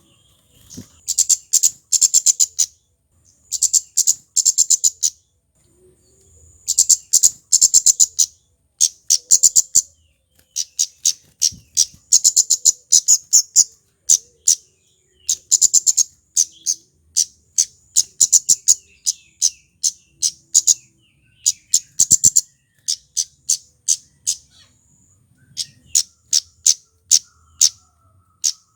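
Male flowerpecker (kemade) calling: rapid runs of high, sharp ticking notes, several a second, in bursts of a second or two with short pauses between.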